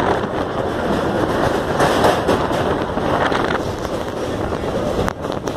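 Train running across a steel truss bridge, heard from aboard: a dense, loud rattle and rumble of wheels on the bridge, with wind buffeting the microphone. There is a single sharp knock about five seconds in.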